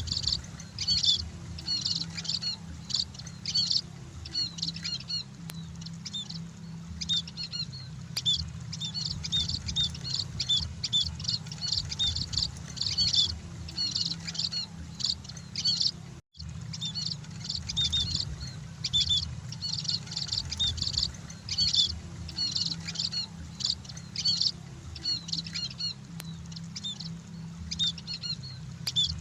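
A flock of munias (emprit) chirping and twittering in a dense, rapid chatter, over a low steady hum. The sound cuts out for an instant about sixteen seconds in.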